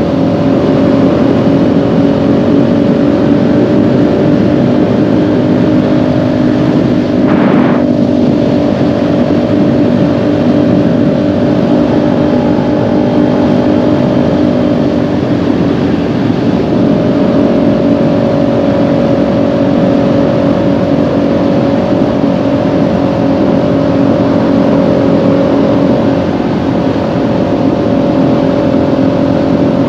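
Kawasaki Ninja 400's parallel-twin engine running at a nearly steady engine speed while the bike cruises, its valves freshly adjusted. A brief rush of noise passes about seven and a half seconds in.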